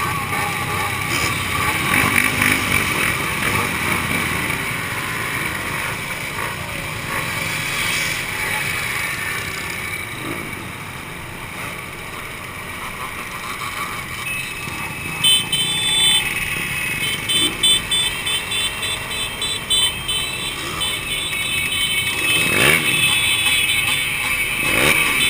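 Two-stroke motorcycle engines running, growing more uneven with louder surges in the second half.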